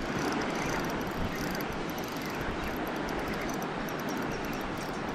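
A steady rushing noise, even from low to high pitch, with faint light ticking throughout.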